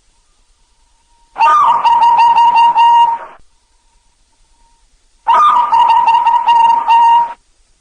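Zebra dove (perkutut) cooing: two calls of about two seconds each, separated by a pause, each a run of quick notes on a clear steady pitch.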